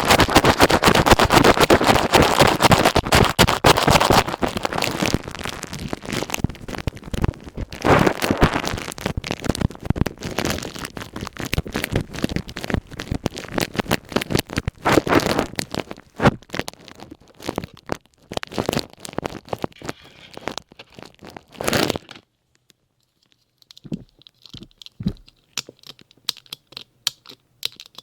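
Ear pick scratching and scraping over a plastic hair-dye ear cap: a dense crackling rustle that thins into separate strokes, breaks off briefly well into the clip, then returns as a few soft taps.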